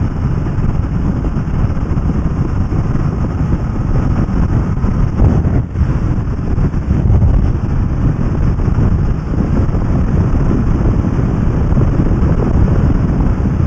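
Kawasaki ER-6f (Ninja 650R) parallel-twin motorcycle ridden at steady road speed. Wind rushing over the camera's microphone and road noise cover the engine, with one brief dip about halfway through.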